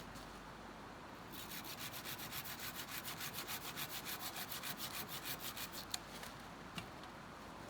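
A tool rasping against wood in a quick, even run of strokes, about eight a second, for roughly four and a half seconds, followed by two sharp clicks.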